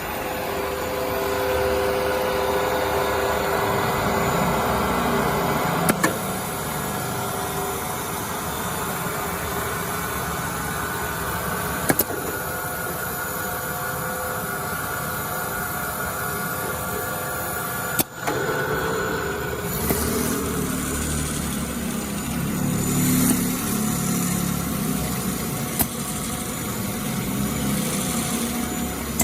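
Linear edge profile sanding machine running, a steady mechanical drone of motors and sanding heads with a few short tones over it. There are sharp clicks about every six seconds, and the sound turns rougher with more low rumble about two-thirds of the way through.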